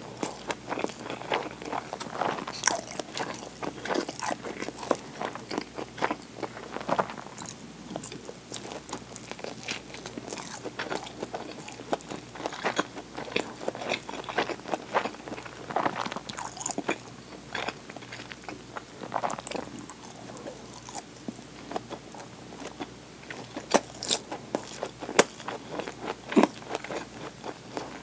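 Close-miked eating sounds: a person chewing and biting food, with many irregular small clicks and crunches. Partway through, she takes a bite of an inari sushi, rice in a fried tofu pouch.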